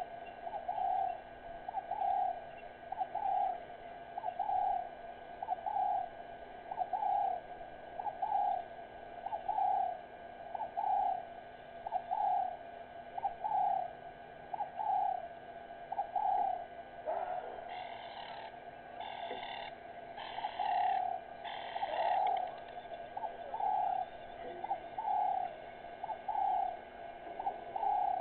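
A bird repeats one short hooting note over and over, about every 0.8 seconds. Partway through, a second bird gives four louder, harsher calls.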